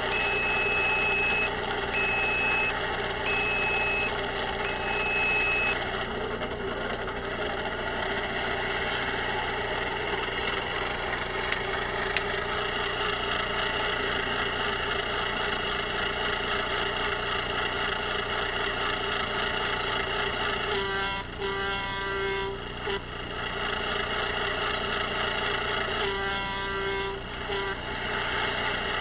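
Electronic sound module of a radio-controlled Kenworth W900 model truck, playing a steady diesel engine idle. Four reversing beeps sound in the first six seconds. Two bursts of short horn blasts come about 21 and 26 seconds in.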